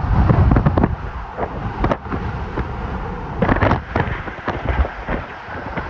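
Hurricane-force wind buffeting the microphone with a low rumble, broken by many sharp cracks and rattles, most densely about three and a half seconds in.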